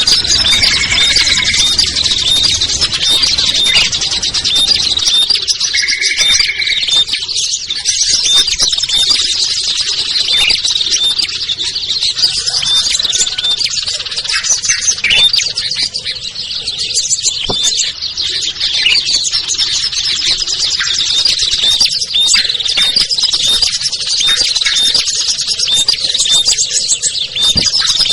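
A dense chorus of small songbirds chirping and twittering without pause, a layered mix of calls used as a lure for small wild birds. Two short, lower, steady whistled notes stand out, about a second in and again about six seconds in.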